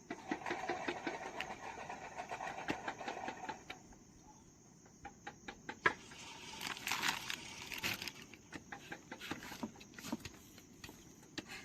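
Steady high-pitched insect drone, with scattered clicks and two stretches of rustling noise, the second about seven seconds in.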